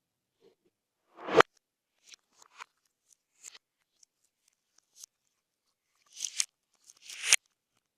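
Slime being squeezed and worked by hand, giving crackly pops and crunches. Scattered small clicks run through, with a loud squelching pop about a second and a half in and two more loud pops near the end.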